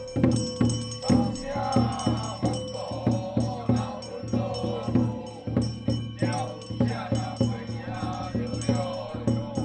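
Temple ritual music: a wavering melody line, chant-like, over rapid, evenly struck percussion at about three strokes a second.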